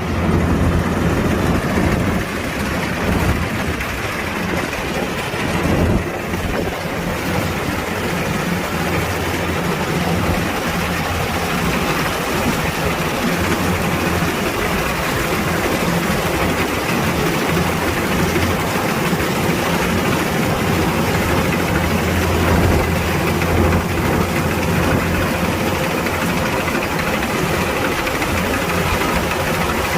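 Kubota DC-105X combine harvester's diesel engine running steadily, a deep engine note under continuous mechanical noise.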